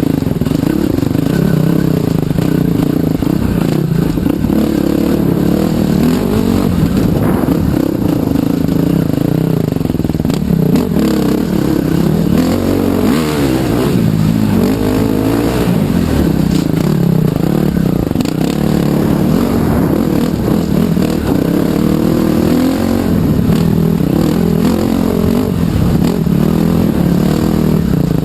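Trail bike engine running while riding, its pitch rising and falling repeatedly as the throttle is opened and eased off.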